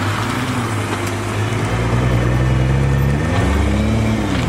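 Car engine running with a steady low drone, its pitch rising and falling back near the end as the throttle is blipped.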